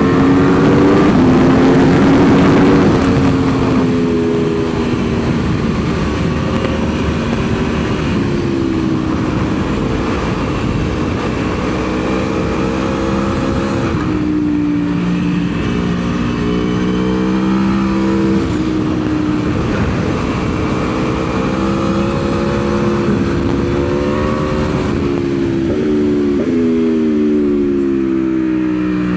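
Aprilia Tuono V4's V4 engine at speed on a track, the revs climbing and dropping in steps as it shifts through the gears, over heavy wind rush on the microphone. Near the end the pitch falls in several quick steps: downshifting for a corner.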